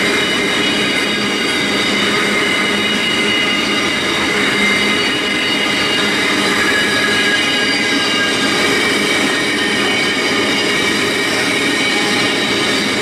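Double-stacked container wagons of a long freight train rolling steadily past, a continuous loud run of wheels on rail. Over it, several steady high squealing tones from the wheels hold throughout.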